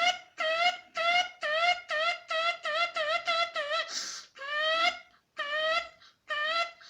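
A gull calling in a rapid run of short, rising, piping notes, about two to three a second, broken by a brief breathy hiss about four seconds in and followed by a longer drawn-out note.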